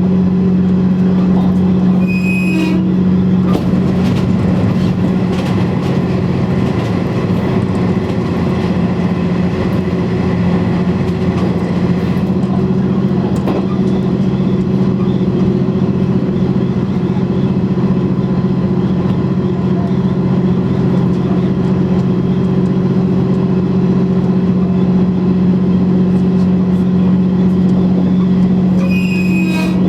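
KiHa 100 diesel railcar under way, heard from the cab: its diesel engine runs at a steady pitch over the rumble of wheels on the rails. A brief high tone sounds twice, about two seconds in and near the end.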